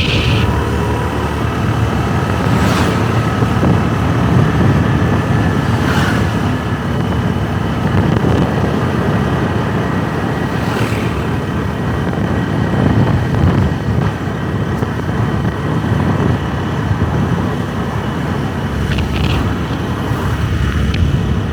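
Motorbike running at riding speed, with steady road and traffic noise and a few brief sharper sounds along the way.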